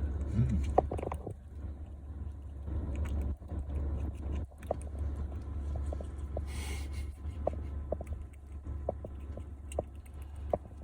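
Squirrel chewing, with short sharp crunchy clicks about twice a second in the second half, over a steady low rumble.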